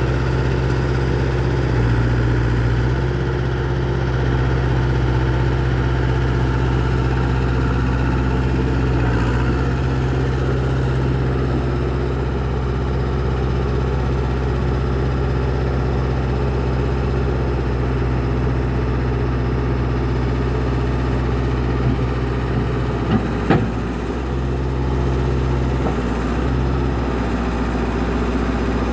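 Ford wheeled excavator's diesel engine running steadily, with small shifts in its note now and then. A brief knock or clatter sounds about five seconds before the end.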